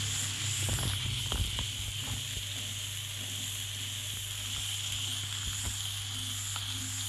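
Ground spice paste of chilies, shallots, garlic and dried shrimp sizzling steadily in hot oil in a wok. A spatula scrapes and knocks against the pan a few times in the first couple of seconds.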